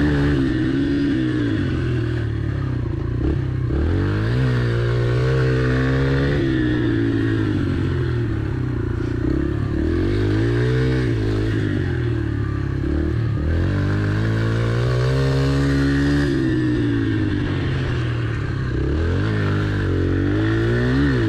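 Yamaha TT-R pit bike's four-stroke single-cylinder engine revving up and easing off again and again, every few seconds, as it is ridden around the turns of a rut track.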